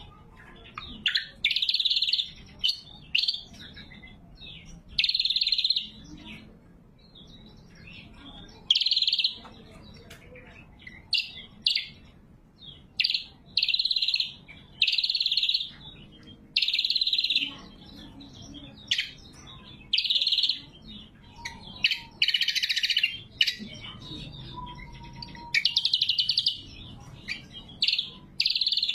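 Greater green leafbird (cucak kombo) singing loud, clear, sharp phrases, each under a second long, repeated every second or two with short pauses.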